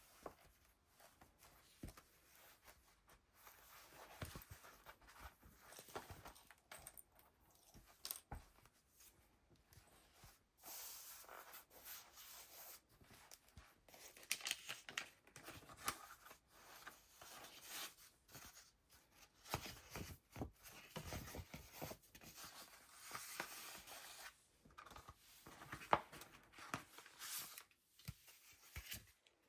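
Pages of a handmade junk journal being handled and turned: faint, irregular paper rustling and crinkling, busier from about ten seconds in, with one sharper tap near the end.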